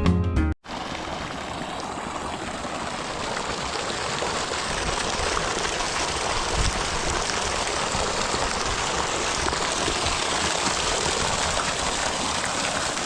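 Background music cuts off about half a second in, followed by a steady rush and trickle of water with no clear rhythm.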